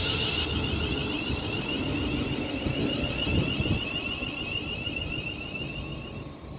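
Class 350 electric multiple units standing at the platform, making a steady high-pitched whine over a low rumble. The whine stops near the end.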